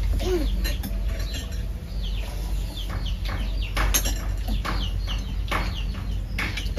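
Birds chirping over and over in short, quick chirps, with a few sharp clicks of chopsticks against bowls, over a steady low hum.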